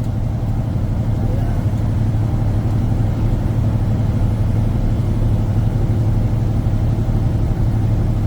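Truck engine and road noise heard from inside the cab while driving: a steady low drone that holds even throughout.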